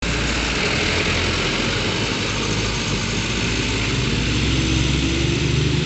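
Mitsubishi Fuso truck's diesel engine running steadily, its note rising a little near the end.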